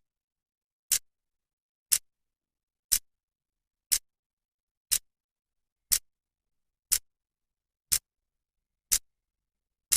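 Clock second hand ticking steadily once a second, each tick a short, sharp click with silence in between.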